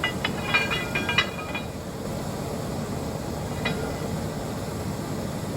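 A burst of light metallic clinks and chinks with short ringing tones in the first second and a half, and one more clink a little past the middle, as steel tools or parts are handled at a large metal lathe. A steady low background noise of an active roundhouse and rail yard runs underneath.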